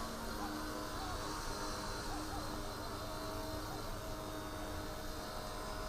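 Eachine E129 micro RC helicopter hovering: a steady whine from its small electric motors and spinning rotor, wavering slightly in pitch as the throttle is worked.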